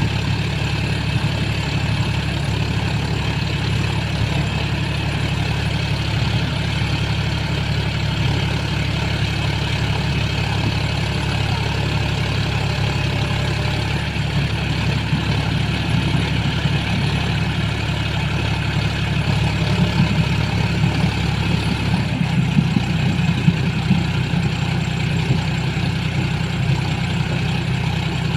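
Tractor diesel engine running steadily. About two-thirds of the way through, its note shifts and grows more uneven.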